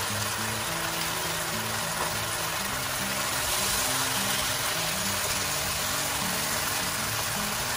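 King oyster mushrooms in sauce sizzling in a wok in a steady, even hiss as they are stirred, under background music with a slow low melody.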